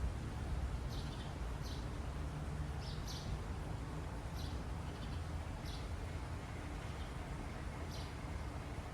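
Small songbirds chirping: short, high chirps about once a second over a steady low rumble.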